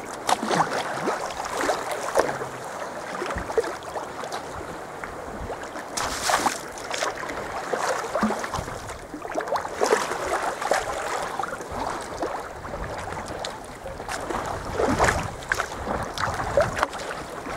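Water sloshing and lapping against a sea kayak's hull, with irregular splashes of paddle strokes every few seconds.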